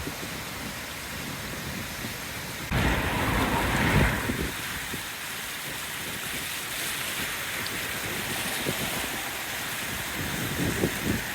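Floodwater rushing steadily in a swollen, overflowing river, with wind buffeting the microphone in a louder gust about three seconds in and in short puffs near the end.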